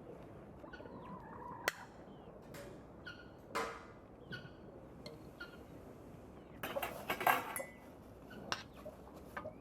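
Domestic poultry calling in short bursts, the loudest a rapid rattling burst about seven seconds in, with scattered small clicks and knocks between.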